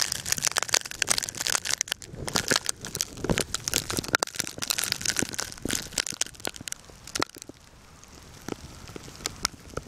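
Dense, irregular crunching and crackling close to the microphone, loud for about seven seconds and then dropping to a fainter hiss with scattered crackles.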